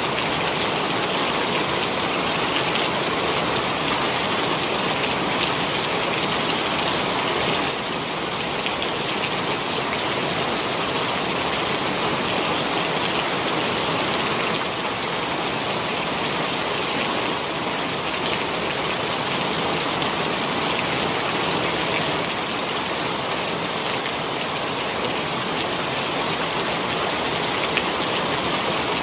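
Heavy rain pouring steadily, a dense, even hiss of drops hitting surfaces.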